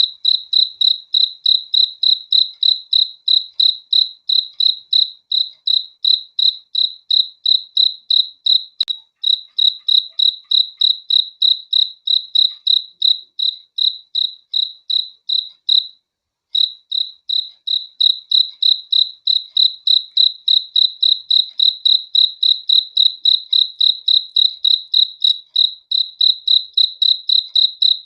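A cricket chirping in a steady, even rhythm of about three to four high chirps a second, with one brief pause about two-thirds of the way through.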